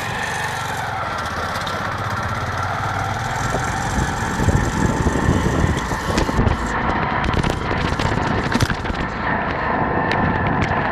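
Motorcycle running under way, engine mixed with road and wind noise; the low rumble gets rougher and louder about four seconds in.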